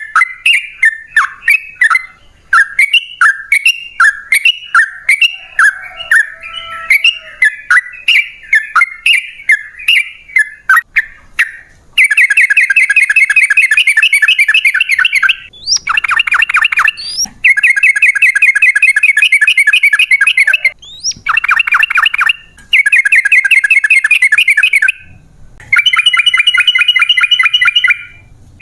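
Yellow-vented bulbul (trucukan) singing. It opens with a string of short bubbly chirps, then from about halfway through gives long, fast rattling trills in bursts of a couple of seconds with short breaks between.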